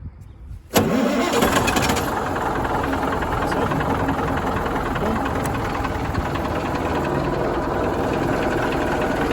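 An engine catches abruptly about a second in, its starter having been held in, and then runs steadily and loudly.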